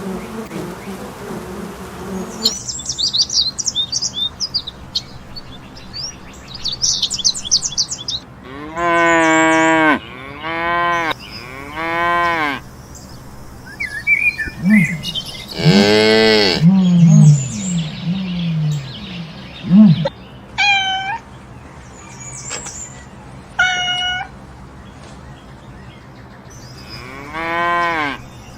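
A sequence of animal sounds. A low buzzing hum stops a couple of seconds in, birds chirp for several seconds, and then cattle moo several times, in long calls that rise and fall, with a few shorter higher-pitched calls between them.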